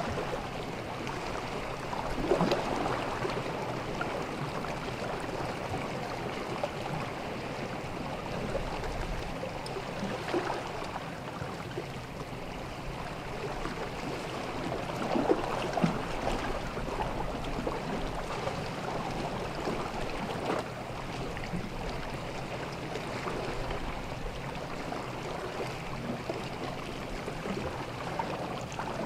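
Small sea waves lapping and washing on a beach, a steady rushing that swells louder now and then, most clearly about two, ten and fifteen seconds in.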